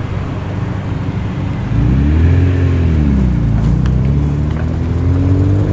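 A performance car's engine pulling away. It gets louder about two seconds in, then revs rise, drop back briefly and climb again as it accelerates.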